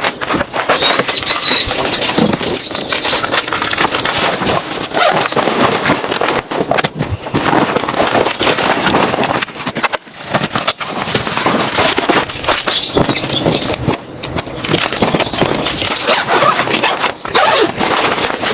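Cold, dry snow crunching and squeaking, a dense run of crunches with a few short pauses.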